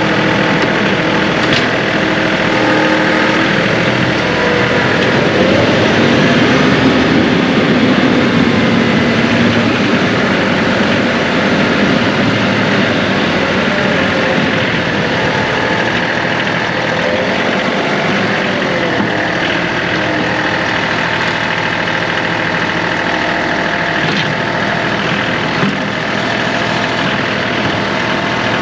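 John Deere 2038R compact tractor's three-cylinder diesel engine running steadily, its pitch rising and falling again a few seconds in as the load or throttle changes.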